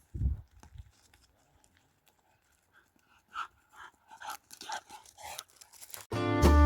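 A dog whimpering and panting in faint short bursts, after a low thump just after the start. Music with guitar and drums comes in loudly near the end.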